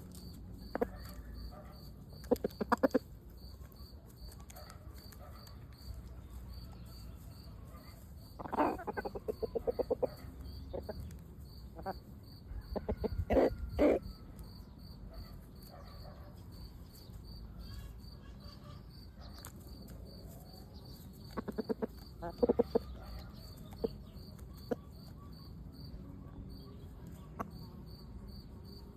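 Chickens clucking in short runs of rapid clucks, four times, the loudest about halfway through. Crickets chirp steadily throughout.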